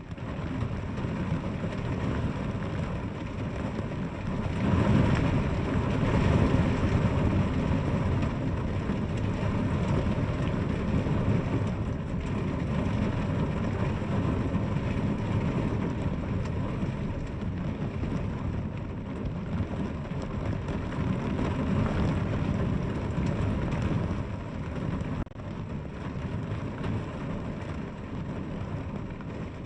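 Steady heavy rain falling, with a deep rumble that swells about five seconds in.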